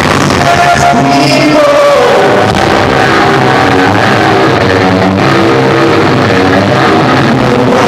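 Live rock band of electric guitar, bass and drums playing loud, with a sung or bent guitar line gliding downward early on; the recording is poor and crowded, as its 'bad sound' label says.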